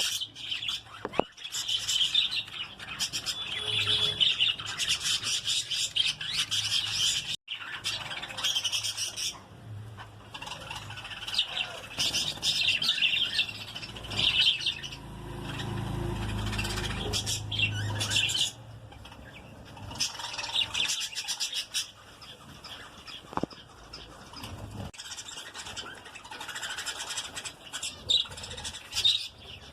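A colony of small pet parrots kept for breeding, chirping and chattering continuously in quick, high-pitched calls. A low rumble runs underneath for a few seconds about halfway through.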